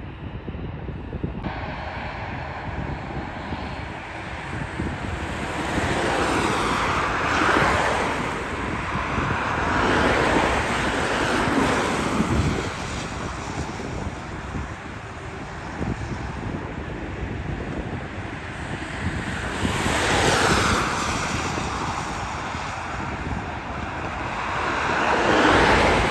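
Wind buffeting the microphone in repeated gusts, over the steady roar of jet aircraft at an airport. The noise swells four times, for a couple of seconds each.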